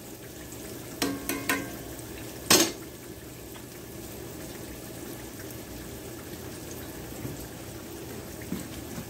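Flour-coated summer squash cubes frying in oil in a cast-iron skillet: a steady sizzle, with a few sharp clicks about a second in and a louder one about two and a half seconds in.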